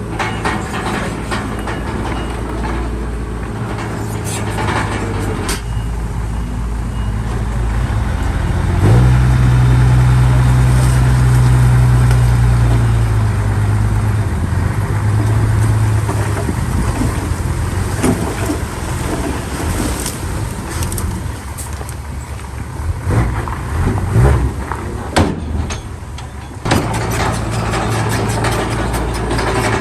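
Heavy diesel earthmoving machinery running. About nine seconds in the engine revs up and holds louder for several seconds under load, then eases back. In the second half there are several sharp metallic knocks and clanks.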